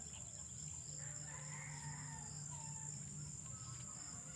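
A rooster crowing faintly about a second in, over a steady high-pitched drone of insects such as crickets.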